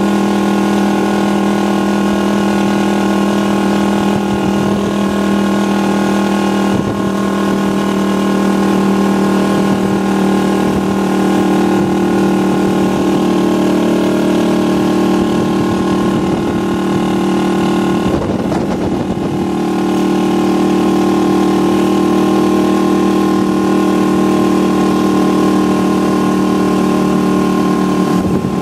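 Motorcycle engine of a tricycle running at a steady cruising pace, heard from inside the sidecar as an even drone over road noise. There is a short rougher patch about two-thirds of the way in.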